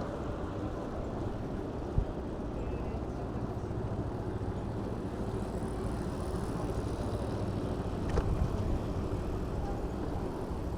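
Riding noise from a hire e-bike in city traffic: a steady low rumble of tyres, wind and passing vehicles, with a sharp knock about two seconds in and a few bumps about eight seconds in.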